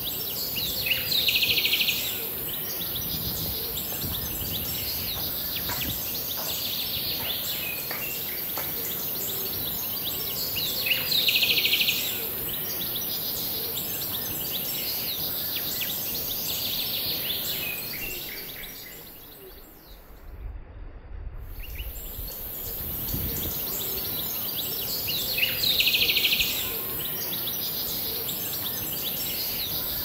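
Wild songbirds singing in a forest: one bird gives a loud, about one-second trilled phrase three times, roughly every twelve seconds, with smaller chirps between, over a steady background hiss. About two-thirds through the ambience dips briefly and a low rumble follows.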